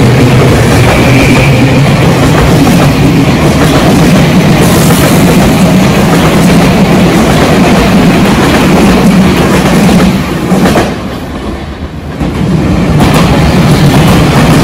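Tobu Tojo Line electric commuter train running past at close range: a steady, loud rumble of wheels on rail with a low motor hum. About eleven seconds in the noise drops away for a couple of seconds, then comes back just as loud.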